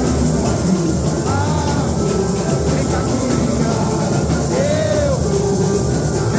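Live samba-enredo music, a steady, dense mix, with two short sliding tones that rise and fall, one near the start and one near the end.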